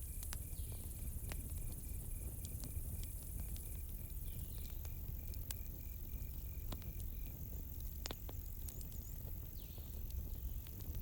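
Campfire crackling, with scattered sharp pops over a low steady rumble, while a cricket chirps in a steady run of short high pulses that stops about seven seconds in; a thinner high insect trill sits above it.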